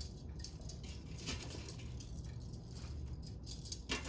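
Light rattles and a few soft clicks as pieces of air-fried chicken are lifted out of the air fryer basket and set on a plate, over a low steady hum.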